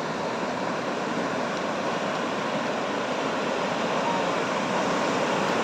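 Ocean surf washing steadily on a beach, an even rushing noise with no distinct breaks.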